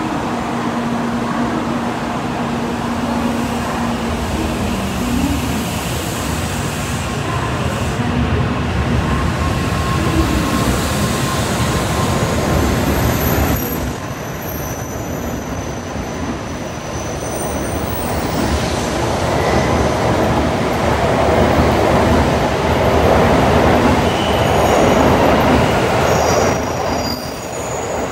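N700 series Shinkansen departing, its cars rolling past with steady wheel and track noise and thin high squeals. It grows louder as the train gathers speed.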